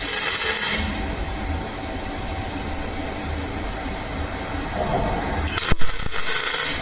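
Electric welder arc crackling and hissing in two bursts of about a second, one at the start and one near the end, with a sharp click just before the second burst ends and a low hum between the bursts.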